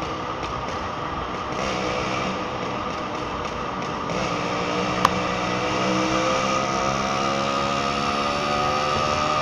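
Two-stroke motorcycle engine running under way with wind and road noise. From about four seconds in its pitch climbs steadily as it accelerates. A single sharp click about five seconds in.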